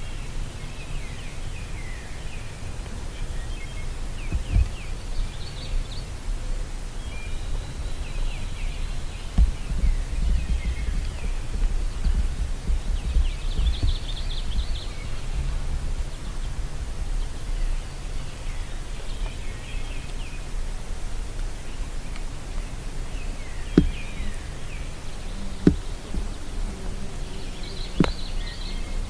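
Small songbirds singing repeated short chirping phrases over a steady low rumble on the microphone, with three sharp clicks in the last few seconds.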